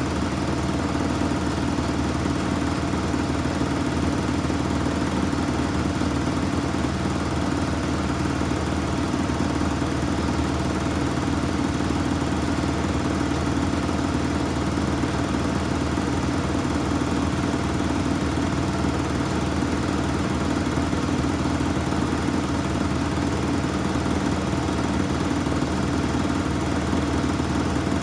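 Samsung washing machine running steadily, a constant even motor hum with no change in pitch or level.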